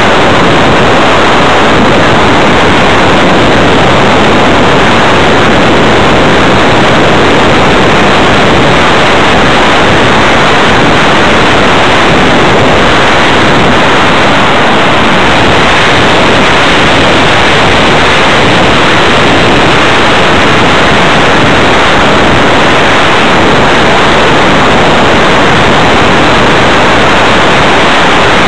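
Dense, steady, very loud rushing hiss: the airstream and propeller noise of an electric RC hotliner in flight, heard through its onboard keychain camera's microphone and overdriving it.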